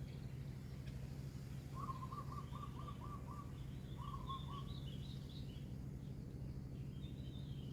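Birds calling: a quick trill of repeated notes about two seconds in and a shorter one near four seconds, with thin high chirps in between and again near the end, over a steady low hum.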